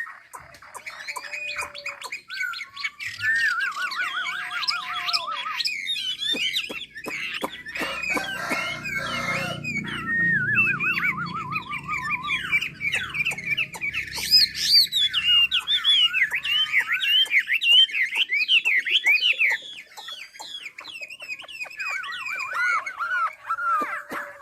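A songbird of the kind Vietnamese keepers call 'mi' singing a long, varied song of loud whistled phrases and fast trills. A low rumble sits under the song for several seconds in the middle.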